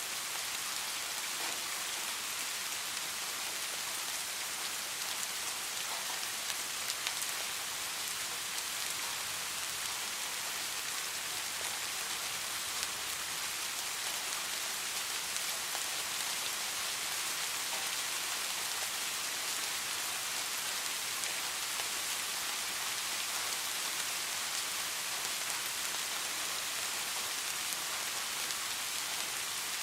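Steady rain: an even hiss of many small drops falling on a surface, with a few slightly louder drops about seven seconds in.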